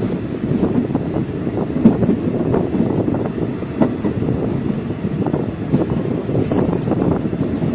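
Passenger train running on the rails, heard from a carriage: a steady low rumble of wheels on track with frequent irregular short knocks and rattles, and a brief hiss near the end.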